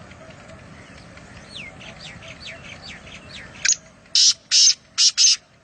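Birds calling: a run of quick, thin, downward-sliding chirps, then four loud, harsh calls in quick succession near the end.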